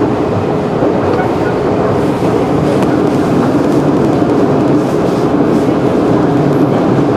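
JR 211 series electric train running at speed, heard from inside the carriage: a steady rumble of wheels on rail with a constant hum.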